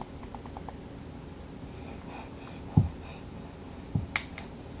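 Scattered keystrokes on a computer keyboard, with a couple of dull thumps about three and four seconds in and a few sharper key clicks near the end, over a faint steady hum.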